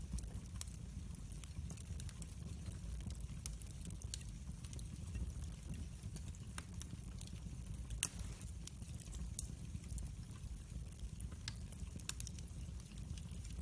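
Wood fire burning: a steady low rumble of flames with irregular small crackles and pops from the burning wood, and one louder pop about eight seconds in.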